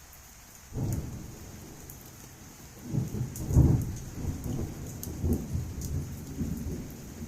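Thunder rumbling during a heavy rainstorm: a low rumble starts suddenly about a second in, swells to its loudest around three and a half seconds and keeps rolling, over the steady hiss of heavy rain.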